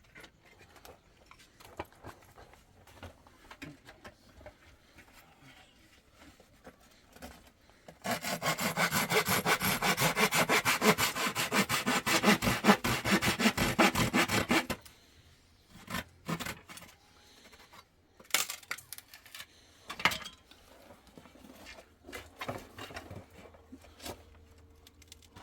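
A wooden board being sawn by hand, with quick, even back-and-forth strokes for about six seconds in the middle. Scattered knocks and clicks come before and after the sawing.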